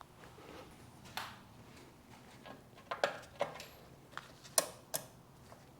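A string of sharp clicks and small knocks, a cluster of three around the middle and the two loudest near the end, from the switches of a Yanmar 1500 tractor being worked to test the lights, horn and signals.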